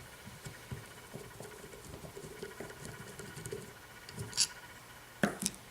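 Light clicks and scattered taps of small metal carburetor parts and a tool being handled during reassembly, with a sharper click about four seconds in and two more near the end.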